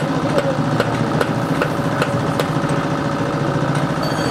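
Steady machine hum with sharp, evenly spaced metal blows about two and a half a second, typical of forging by hammer; the blows stop about halfway through, and a steady high whine starts near the end.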